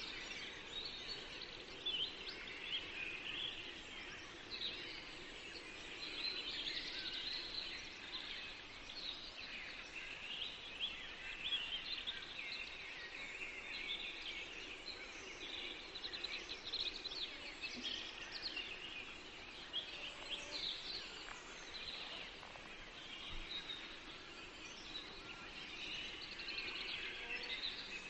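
Chorus of many songbirds singing in a forest, overlapping chirps and trills with no pause.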